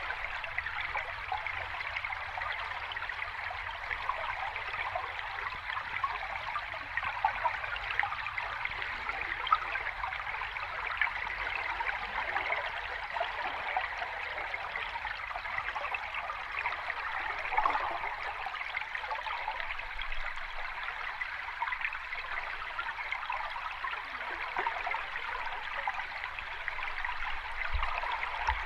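Steady flow of water in a small cascade, a continuous rushing with fine babbling and bubbling running through it.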